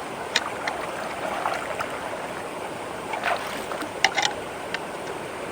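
Water rushing and swirling down into a culvert through a whirlpool, a steady rush with a few short sharp splashes or gurgles, the loudest about four seconds in.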